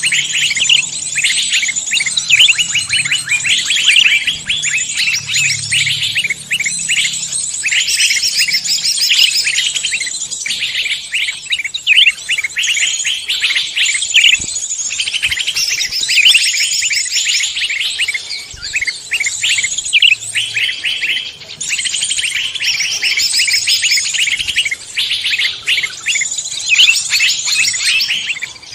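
Dense chorus of mixed forest songbirds, many high, rapid chirps and trills overlapping without a pause.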